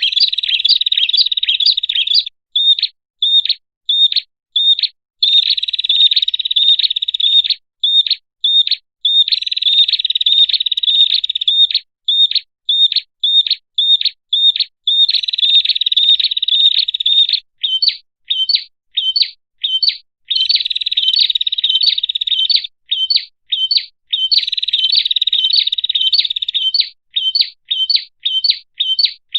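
Prenjak (prinia) song played as a lure call: sharp, high chirps repeated about two to three times a second, breaking every few seconds into dense, rapid chattering runs of about two seconds each.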